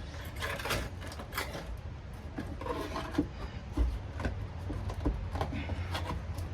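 Decades-old sound-deadening mat being peeled up off a car's steel floor pan, crackling and tearing in irregular strokes.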